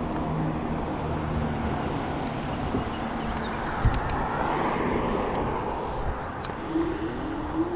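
Road and traffic noise while riding, with a rising whine near the end.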